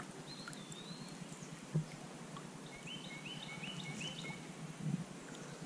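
Songbird calls over a steady low hiss: one slurred whistled note, then about three seconds in a run of five short, stepped notes repeated quickly. A single soft knock just before two seconds in.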